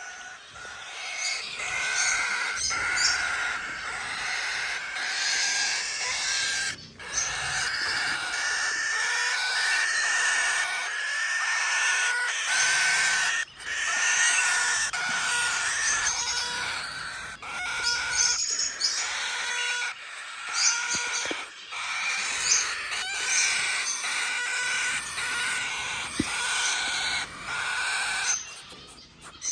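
Many quail chirping and calling continuously, a dense overlapping chatter of short high calls.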